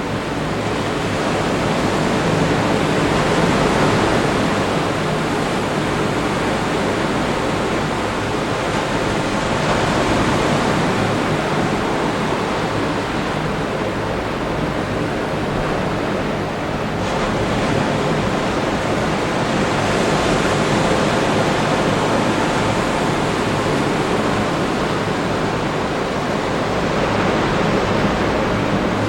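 Atlantic surf breaking on the beach below, a steady wash of noise that slowly swells and eases several times.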